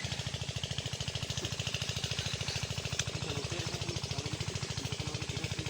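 Sonalika tractor's diesel engine running steadily, a rapid even knocking beat of about ten pulses a second.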